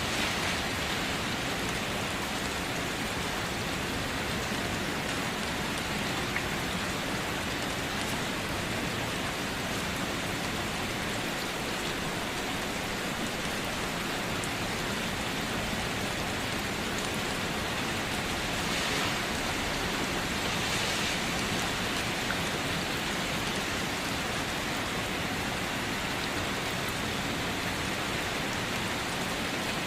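Steady rain falling, with a few faint drop ticks and a slight swell about two-thirds of the way through.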